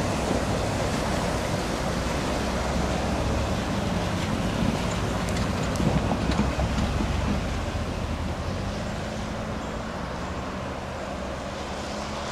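Freight train rolling past: a steady rumble of wheels on rail with a low diesel locomotive hum, loudest about six seconds in, then slowly easing off.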